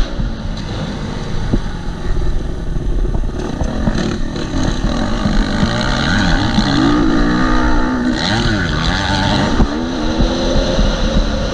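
KTM 250 SX-F four-stroke single-cylinder motocross engine running hard, its pitch rising and falling again and again as the rider opens and closes the throttle and shifts. It sits over a strong low rumble.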